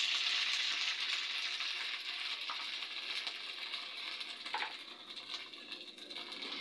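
Green peas sizzling in hot oil in a wok just after being tipped in, a steady frying hiss with a few small pops that slowly dies down.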